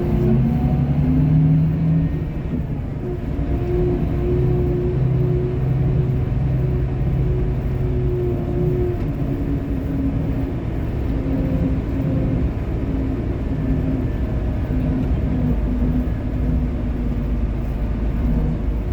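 A bus's diesel engine running under way over a low road rumble, its note dropping about halfway through.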